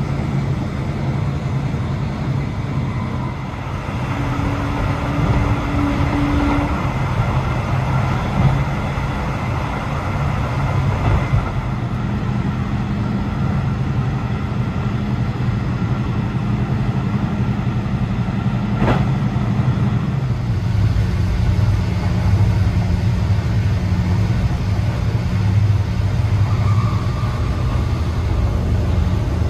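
Steady running rumble of a passenger train carriage in motion, heard from inside, with a low hum that shifts pitch about two-thirds of the way through. There is a single sharp click at about the same point.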